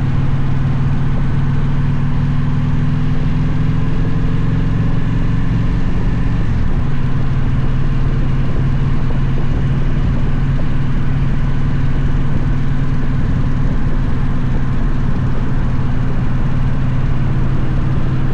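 Victory motorcycle's V-twin engine running steadily while riding. Its note climbs slightly, then drops and settles about six and a half seconds in.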